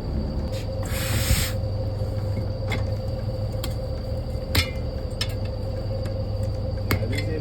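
Workshop work on a bus air-suspension bag and piston: a short hiss of air about a second in, then a few scattered metallic clicks and knocks of tools and parts, over a steady low hum.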